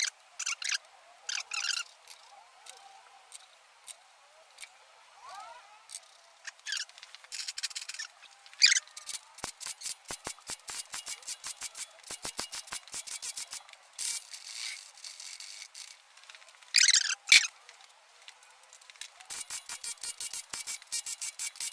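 A ratchet wrench clicking in quick runs, with a few louder metal clinks, as the cylinder-head bolts are run down on a French flathead engine.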